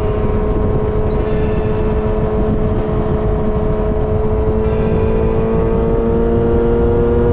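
Yamaha XJ6's 600 cc inline-four running through a Dominator GP full aftermarket exhaust with the dB killer fitted, held at a steady engine speed whose pitch climbs slowly in the second half.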